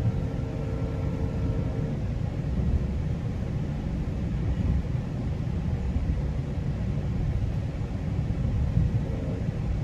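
Steady rumble of a GO Transit commuter train running along the track, heard from inside a coach. A faint thin tone rides over it for the first couple of seconds.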